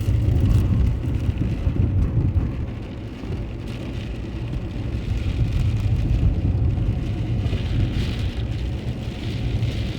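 Steady low rumble of a car driving on a wet road, heard from inside the car, with the hiss of rain and spray over it.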